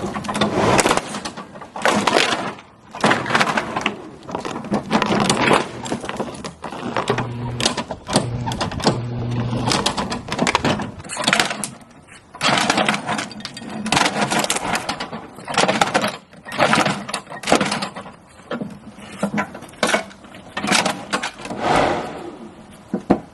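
Running lawnmower chewing up a plastic toy: many irregular loud crunching, clattering bursts as the blade hits the plastic, over the mower's steady engine hum.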